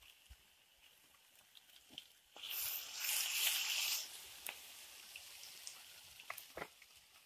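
Chicken pieces frying in a hot pan: a sudden loud sizzle about two and a half seconds in, settling after a second and a half into a quieter steady sizzle with a few sharp pops.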